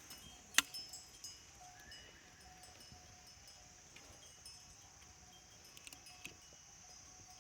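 Faint, scattered clinks of livestock bells, the sharpest about half a second in, over a steady high hiss.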